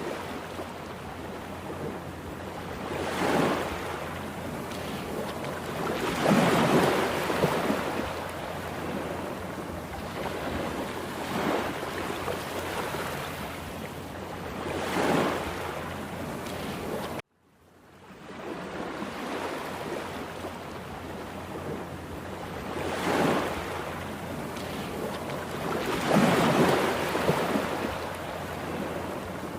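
Heavy surf on a rough Atlantic sea: a steady wash of water with louder waves breaking every few seconds. The sound cuts out abruptly for a moment about halfway through, then the surf resumes.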